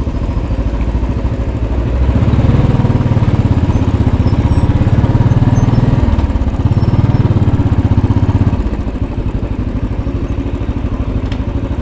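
2010 Royal Enfield Bullet 500's single-cylinder engine running with a steady, fast pulse, growing louder about two seconds in and easing back about eight and a half seconds in.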